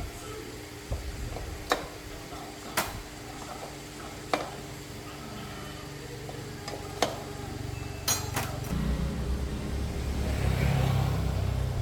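Metal tools and motorcycle parts clinking and knocking, single sharp clinks every second or so, then a low rumble that rises over the last few seconds.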